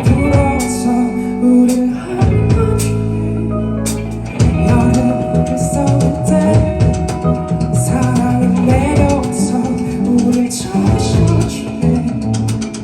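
A live band playing a song loudly, with drums keeping a steady beat over guitar and other instruments.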